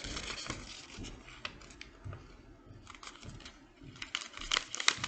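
A paper airplane's wing being folded down and creased by hand: the paper rustles and crinkles, with a run of sharp crackling clicks near the end.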